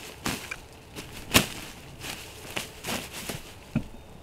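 A freshly shot wild turkey gobbler flopping in its death throes, wings beating on the ground in a series of irregular thumps and rustles, about nine over four seconds, the loudest a little past a second in.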